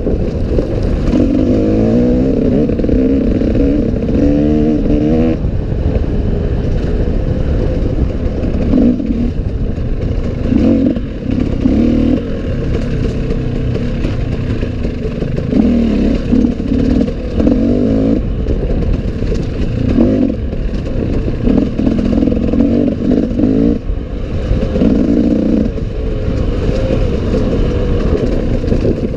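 Enduro dirt bike engine running under load through the whole stretch. It revs up in repeated surges a second or two long and eases off between them, with some clatter.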